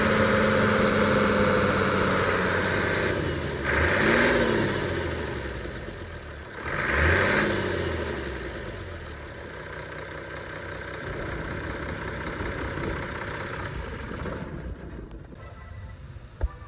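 Isuzu FTR750 truck's diesel engine running, revved briefly twice, about 4 and 7 seconds in, each time rising and falling back to idle. It then settles to a quieter idle, with a single sharp click near the end.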